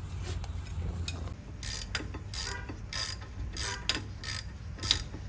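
Ratchet wrench clicking in short repeated runs, about two or three a second from a second and a half in, as the loosened 14 mm rear brake caliper bolt is backed out.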